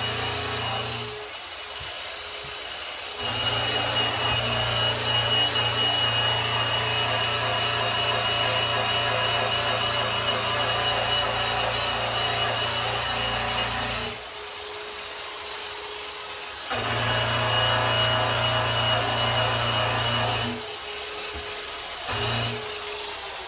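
Electric polisher running against a grand piano's finish, buffing with a steady rubbing noise over a low motor hum. The hum drops away three times for about two seconds each.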